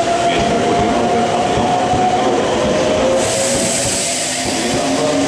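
Meitetsu 3500 series electric train moving along the platform, its traction motors giving a steady whine of several tones over the running rumble. About three seconds in, a loud hiss starts suddenly and lasts about two seconds.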